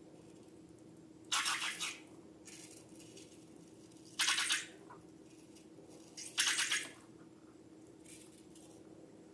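Slime being squished, three short crackly squelches of about half a second each, over a faint steady hum.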